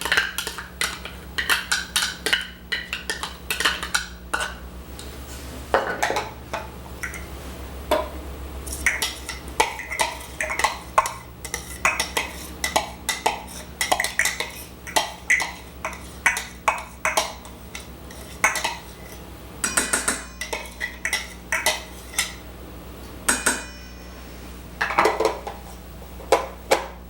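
Kitchen utensils clinking, knocking and scraping against bowls in quick, irregular strikes, over a steady low hum.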